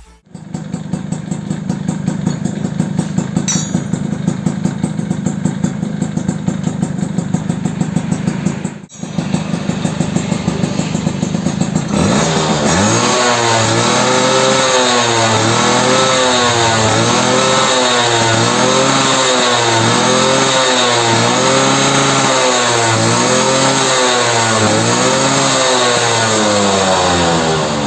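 Suzuki RC100 two-stroke single-cylinder engine running through a new exhaust. It idles at first, dipping briefly about nine seconds in. From about twelve seconds in it is revved in repeated throttle blips, roughly one a second, each rising and falling in pitch, and drops back toward idle at the very end.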